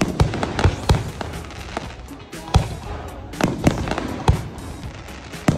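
Fireworks display: aerial shells bursting in a rapid, irregular series of sharp bangs and crackles, with several louder reports.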